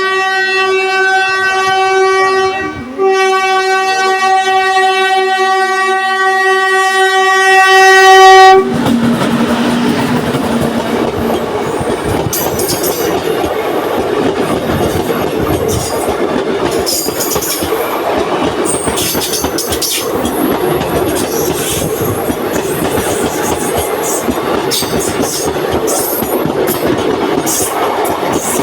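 Train horn sounding two long blasts, the first about three seconds and the second about five and a half, then cutting off as the train rushes past at speed with loud wheel and rail noise and rapid clicking of wheels over rail joints.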